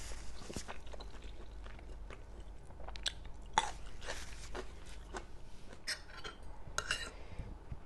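Close-miked chewing and crunching while eating spicy Thai seafood salad, with scattered sharp clicks and crackles, some coming in quick clusters near the end.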